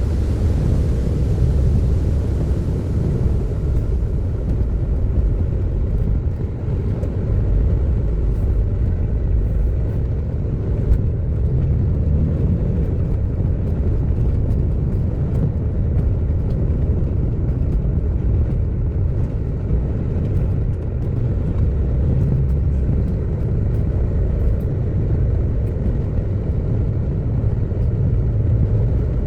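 Steady low rumble of a car driving along, with no speech over it.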